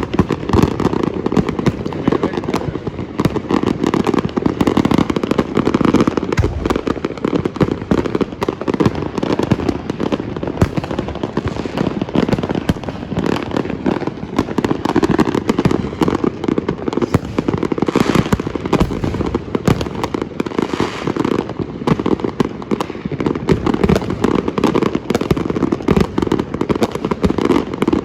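Fireworks and firecrackers going off in a dense, unbroken barrage of many overlapping pops and bangs.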